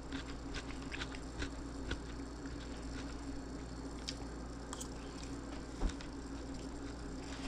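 A person chewing a mouthful of pork meatball, with small wet mouth clicks, over a steady low hum.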